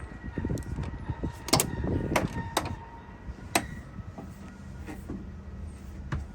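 Low rumble of a Scania P 360 truck's engine running, with about five sharp clicks or knocks spread through it.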